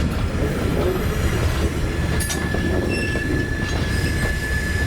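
Rail car rolling on track with a steady low rumble. About two seconds in, a thin, steady wheel squeal starts and holds, as the wheels take a curve.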